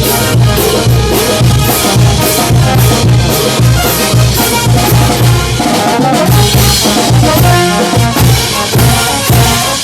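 Brass band playing a lively Latin dance tune: trumpets and other brass over a steady drum beat of about two beats a second. The low drum pulse drops out briefly about six seconds in while held brass notes carry on.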